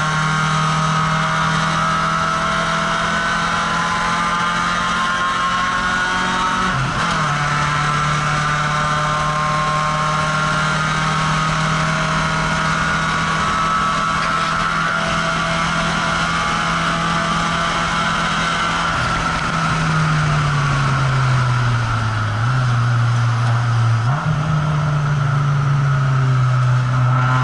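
Citroën ZX's engine heard from inside the cabin at full throttle on a circuit, its note held steady at high revs with a brief dip about seven seconds in, over loud wind and road noise. About two-thirds of the way through the revs drop as the driver lifts and brakes, jump back up once on a downshift, then fall away again into the corner.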